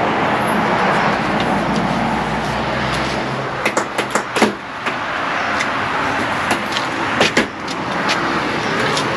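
A motor vehicle's engine running close by, its low rumble stopping about three seconds in, under a steady wash of outdoor noise. Sharp knocks and clicks of uPVC window frames and glazing being worked loose come in clusters, about four seconds in, around seven seconds and near the end.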